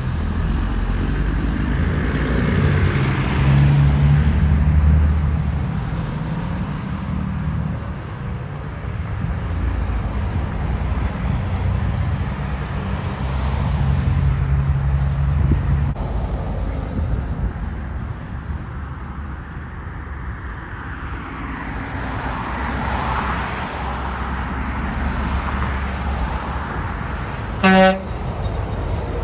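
Heavy road traffic passing, with trucks' engines rumbling as they swell and fade by. Near the end comes one short, loud horn blast.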